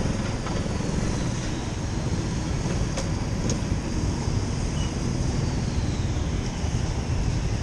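Motorcycle on the move, a steady dense rumble of engine, road and wind noise, with a faint slowly falling whine and two sharp clicks about three seconds in.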